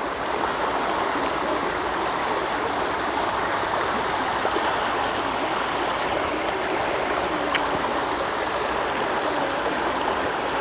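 Steady rush of stream water flowing over a rocky bed at a small waterfall, with a couple of faint clicks.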